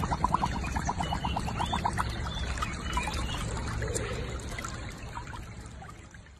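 Water trickling and sloshing around a husky lying in a shallow muddy pool, with a quick run of small regular ticks in the first couple of seconds. The sound fades away near the end.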